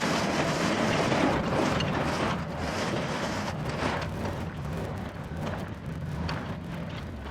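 Excavator running while filling in a stump hole and grading the dirt, its diesel engine working steadily with scattered knocks and scrapes from the bucket and soil.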